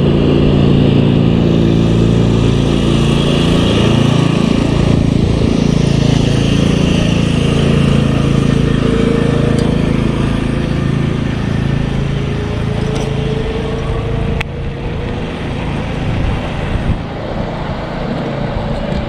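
Riding mower's small engine running as it drives past along the road. Its pitch shifts as it goes by about five seconds in, then it fades slowly.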